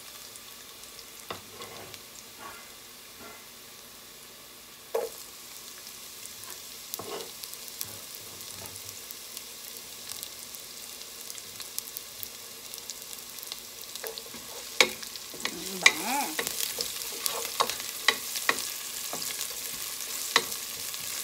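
Diced onion and garlic sizzling in hot oil in a nonstick pot, the garlic already browned, as the onions start to sauté. A wooden spoon stirs and taps against the pot, with one sharp knock about five seconds in; the sizzle grows louder and the clicks of the spoon come thick and fast in the second half.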